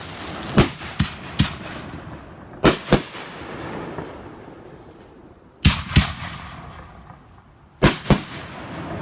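Fireworks bursting: a run of sharp bangs, several coming in quick pairs, with a crackling haze that fades between them and a lull of a couple of seconds before the last pairs.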